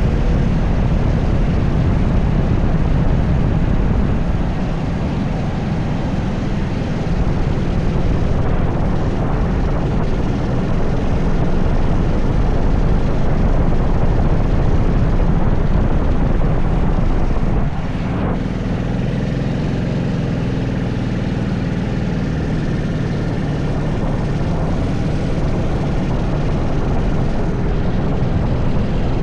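80cc racing kart engine running hard at speed. Its level drops briefly as the throttle lifts about four seconds in and again around eighteen seconds in, then the pitch rises and falls as it revs back up.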